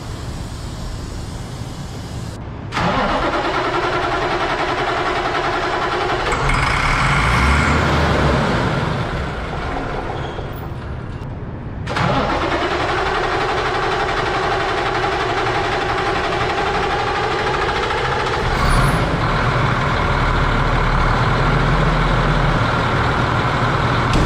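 An old flatbed truck's engine being cranked on the starter in a hard start. There are two long bouts of cranking, each starting abruptly, the first about three seconds in and the second about twelve seconds in. The second ends with the engine catching and running.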